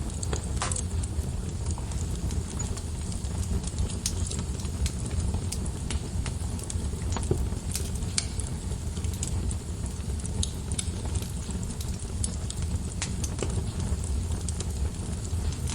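Wood fire burning in a fireplace: a steady low rumble of flames with irregular sharp crackles and pops of burning logs, several a second.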